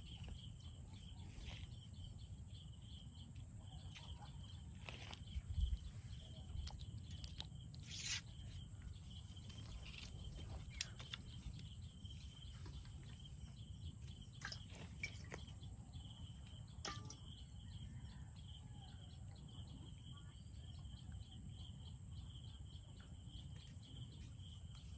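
Faint rural outdoor ambience: a steady, pulsing high-pitched chirring over a low rumble, with scattered clicks and taps, the loudest about five and eight seconds in.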